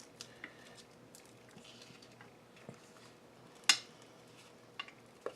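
Light clicks and taps of small craft tools and supplies being handled and set down on a work table, with one sharp click about three and a half seconds in.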